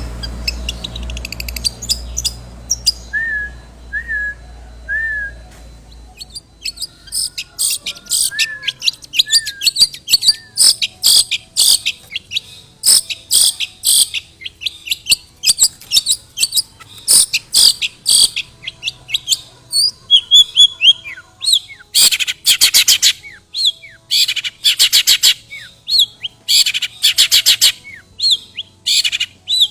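Long-tailed shrike (cendet) singing a fast, harsh chattering song of rapid notes, packed with the borrowed calls that fanciers call isian. A few seconds in there are two groups of three short chirps. A low rumble fades out over the first several seconds, and after that the bursts of song come thick and fast.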